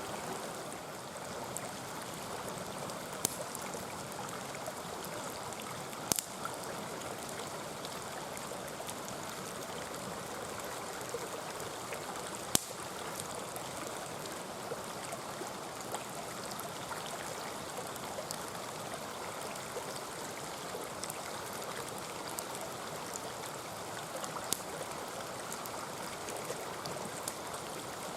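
Mountain stream running and burbling steadily, with the occasional sharp crackle and pop of a wood campfire, a few of them loud.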